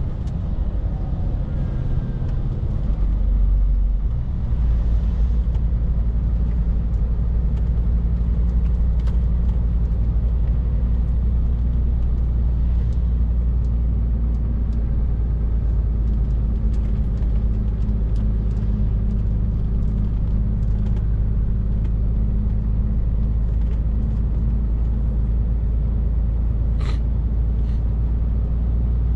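Scania R450 lorry's 13-litre six-cylinder diesel running steadily on the move, a low drone mixed with road rumble. It grows louder about three to four seconds in, and a brief sharp click comes near the end.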